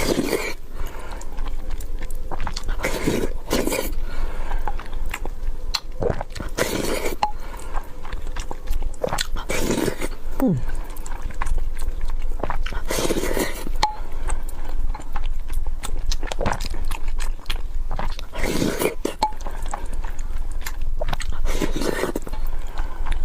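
Close-miked chewing and mouth smacking of a person eating a rice bowl, with many small clicks and a louder mouthful every few seconds.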